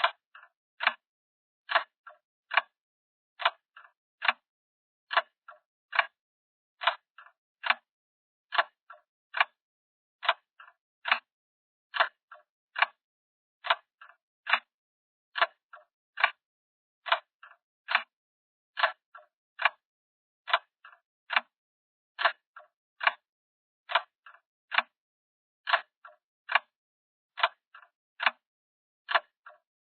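A ticking-clock sound effect: sharp, evenly spaced ticks a little more often than once a second, with a fainter double click between some of them.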